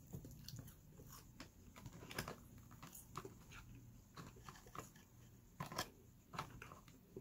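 A person chewing chicken nuggets close to the microphone: faint, irregular mouth clicks and soft chewing noises, a few of them louder.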